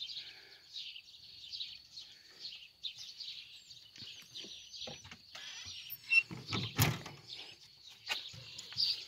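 Small birds chirping and twittering steadily in the background. A few knocks and rustles sound over it, the loudest about two-thirds of the way through.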